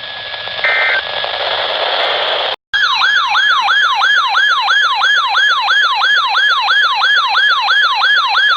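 Hissing radio static with a steady high whistle and two short beeps, cutting out about two and a half seconds in. Then a loud electronic emergency alert tone: a rapid siren-like yelp of falling sweeps, about three a second.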